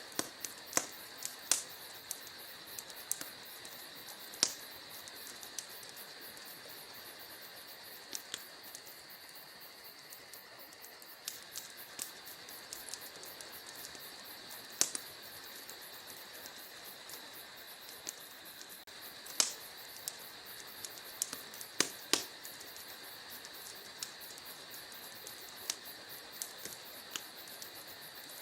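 Wood fire burning in a fireplace: irregular sharp crackles and pops over a steady soft hiss, with a cluster of the loudest pops past the middle.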